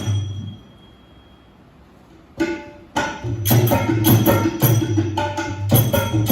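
Drum-led traditional percussion music breaks off at the start, then after a short pause one strike sounds and the drumming comes back in with sharp, rhythmic strikes.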